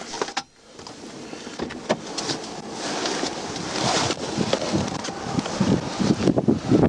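Traffic on an icy highway with wind on the microphone, building in level over the first few seconds, with scattered knocks and rustles.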